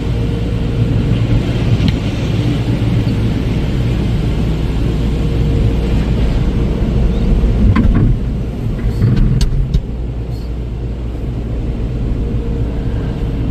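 Car wash dryer blowers heard from inside the car: a steady, loud rumble of blowing air with a constant hum. It eases off slightly about two-thirds of the way through, with a couple of brief clicks.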